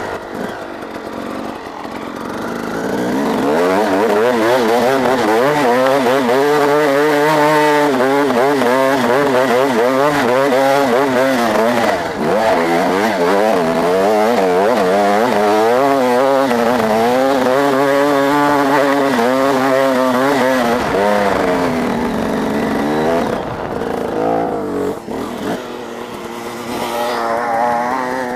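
Motocross dirt-bike engines revving up and down repeatedly, the pitch rising and falling over and over. The sound grows louder over the first few seconds.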